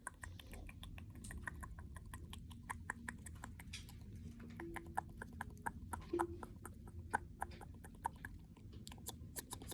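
Cockatiel nibbling and tapping with its beak: a run of quick small clicks and taps, several a second, going on and off.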